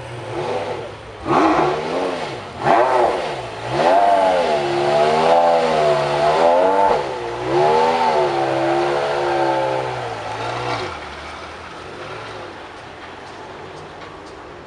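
Supercar engine revved hard: two sharp throttle blips, then several seconds of revs swinging up and down before the sound falls away about eleven seconds in.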